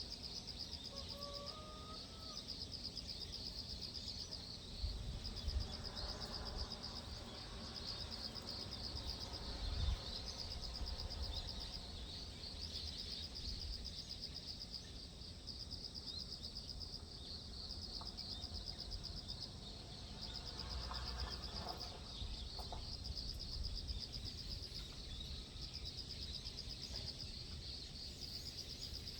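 Outdoor dawn ambience dominated by a steady, high, pulsing insect trill, cricket-like, with a short rising bird call about a second in and a few fainter calls later. Low wind rumbles on the microphone about five and ten seconds in.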